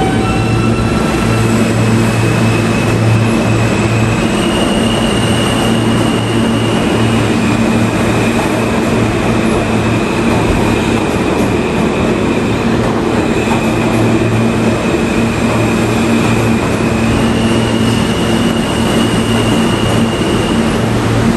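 New York City subway train running, loud and steady, with a low hum under a high whine that steps up and down in pitch several times.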